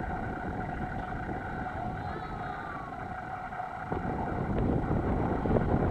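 Steady mechanical hum, like a vehicle engine running, over low rumbling noise that grows louder about four seconds in.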